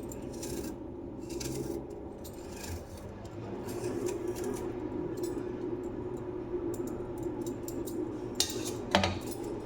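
Knife slicing an onion, with short scattered clicks of the blade and utensil contact over a steady low hum; a louder clatter comes near the end.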